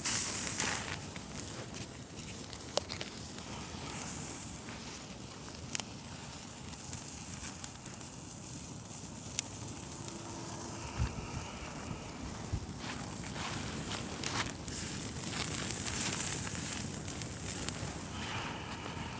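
Campfire crackling with scattered sharp pops, under a steady sizzling hiss of bacon-wrapped tenderloin fillets cooking on a grate over the flames. The hiss swells near the start and again late on.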